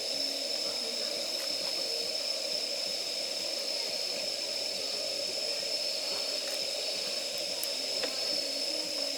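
Firewood campfire burning steadily: a constant hiss with a few faint crackles here and there.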